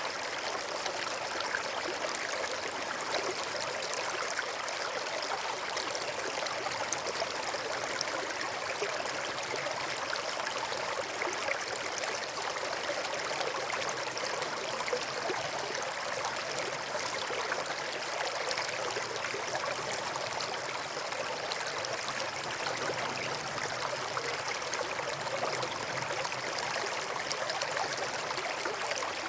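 A small stream running and babbling steadily over stones, an even rush of water that doesn't change.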